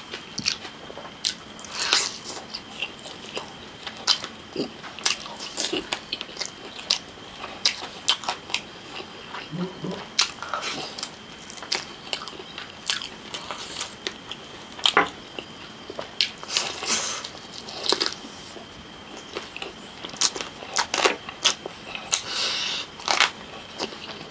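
Close-up eating sounds: wet chewing, lip-smacking and many sharp, irregular mouth clicks as chicken leg meat, torn off by hand, is eaten.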